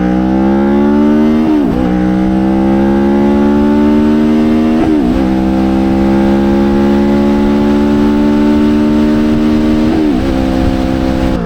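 Motorcycle engine accelerating up through the gears: its pitch climbs steadily, then drops sharply at each of three upshifts, about two, five and ten seconds in, each gear pulling longer than the last.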